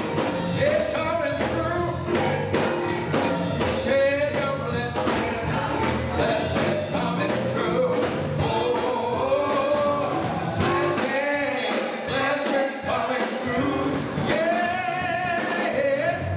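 Gospel choir singing with band accompaniment and steady percussion; the low bass drops out about two-thirds of the way through.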